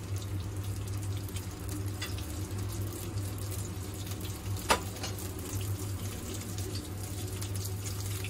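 Raw salted egg yolks sizzling softly in oil as they are stir-fried over very low heat, before they begin to foam, over a steady low hum. One sharp knock comes a little past halfway.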